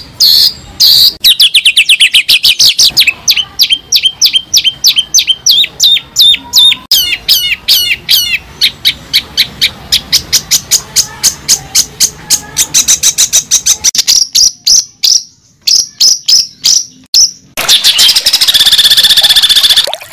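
A bird singing close by, in long fast runs of sharp repeated chirps and trills, ending in a dense buzzy trill.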